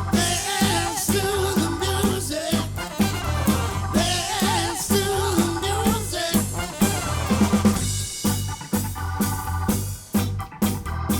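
Live soul band playing an instrumental stretch: drum kit and bass keep a steady beat under a wavering lead line, and held organ chords take over about eight seconds in.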